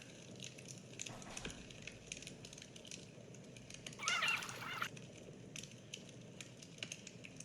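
A bird calls once about four seconds in, a wavering call just under a second long, over faint scattered clicks.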